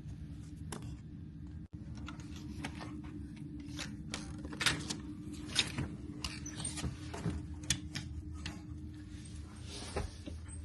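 Steady low hum of a cruise ship's interior, with scattered clicks and light knocks of things being handled.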